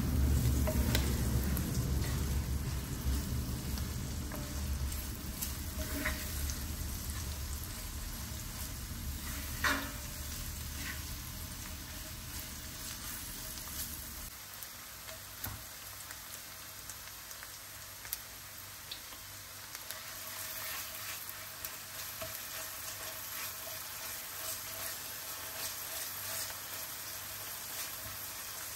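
Minced meat and vegetables sizzling in oil in an enamelled cast-iron pan while a wooden spoon stirs and scrapes, with occasional sharp taps of the spoon against the pan. A low rumble sits under the sizzle for the first half and stops about halfway through.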